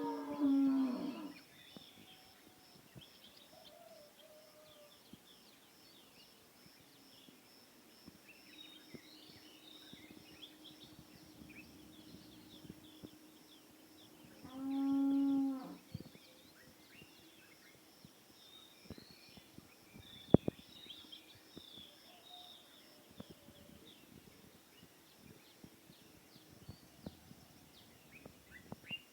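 Dawn bird chorus: many small birds chirping and calling throughout. Near the start and again about halfway through, a loud drawn-out animal call on one steady pitch with many overtones rises over the chorus, each lasting about a second.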